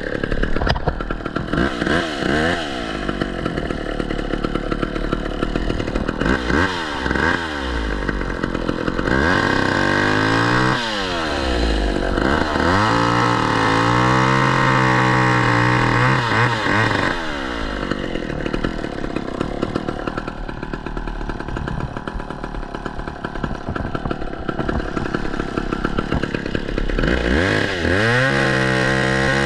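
Two-stroke chainsaw revving up and down several times, its pitch rising and falling, held at high speed for several seconds near the middle.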